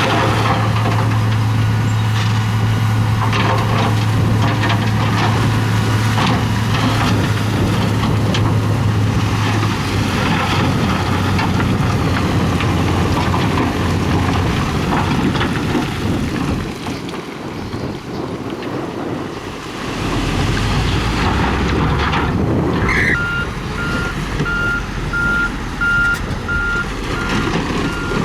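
Heavy diesel construction machinery running, with a steady low engine drone early on that turns rougher. About 23 seconds in, a reversing alarm starts beeping steadily, roughly once a second.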